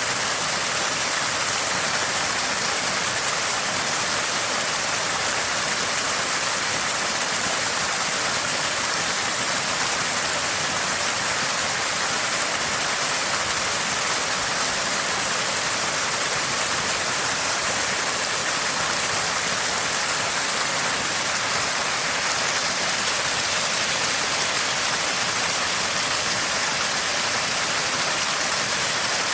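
Small spring water gushing and splashing continuously, a steady, even rush of water.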